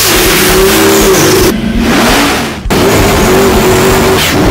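A car engine revving hard under acceleration, its pitch climbing and then holding. It drops away about a second and a half in, then cuts off abruptly and starts a fresh climb.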